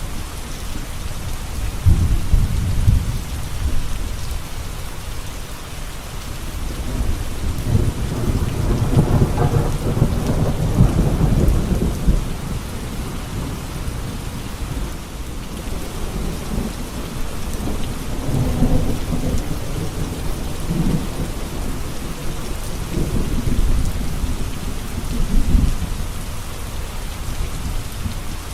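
Steady heavy rain falling, with low rolls of thunder swelling and fading several times, the longest a few seconds in and the strongest around a third of the way through.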